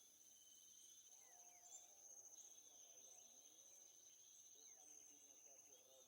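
Near silence with a faint, steady high-pitched insect drone, and a few faint short bird chirps scattered through it.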